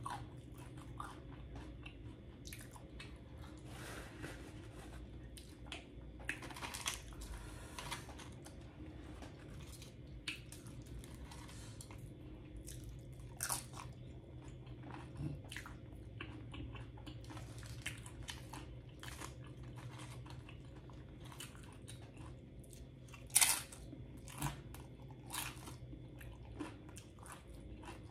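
Close-up eating sounds: loaded nachos being bitten and chewed, with scattered sharp crunches of tortilla chips and wet mouth sounds. The loudest crunch comes near the end. A low steady hum runs underneath.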